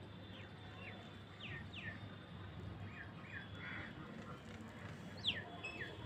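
Birds chirping: a scattered string of short, high chirps that drop in pitch, the loudest about five seconds in.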